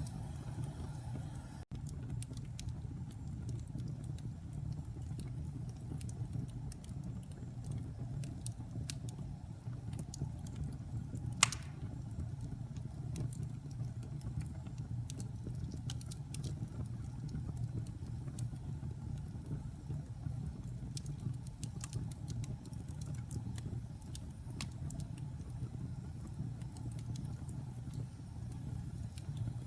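Wood fire burning in a fireplace: a steady low rumble of flames with scattered small crackles and one loud pop about a third of the way in.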